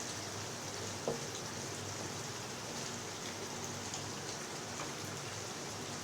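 Chicken pieces sizzling in oil and spice paste in a pan: a steady hiss with small scattered crackles, and one light knock about a second in.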